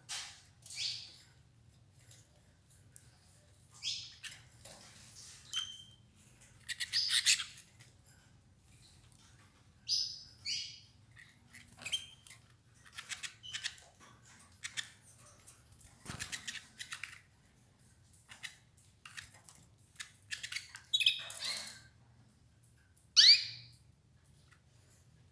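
Domestic canaries giving scattered short chirps and calls, among quick clicks and rustles as they peck at escarole, over a faint steady low hum. The loudest call is a single sharp chirp near the end.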